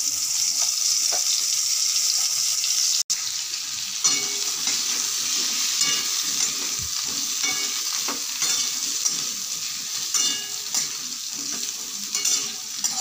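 Pieces of pointed gourd sizzling steadily in hot oil in a metal karahi. From about four seconds in, a spatula scrapes against the pan roughly once a second as they are stirred.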